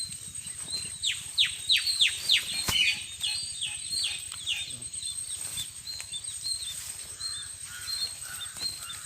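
A bird calling outdoors: a quick run of descending whistled notes, about three a second, that lasts about four seconds and then thins out, over a steady high-pitched insect-like whine. There is a single click about three seconds in.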